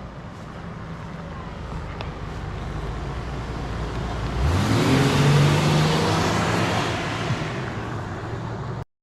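Jeep Cherokee boat-car driving up with its engine running, then accelerating past, the engine note rising about four and a half seconds in with a loud rush of noise, then easing off. The sound cuts off suddenly just before the end.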